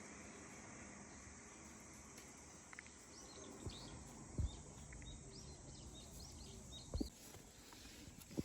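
Faint steady background noise with a run of short, high chirps from small birds in the middle, and a few soft, low thumps.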